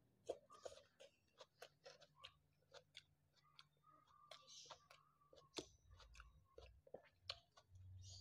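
Faint close-up chewing: a person eating, with soft mouth clicks coming at an irregular pace.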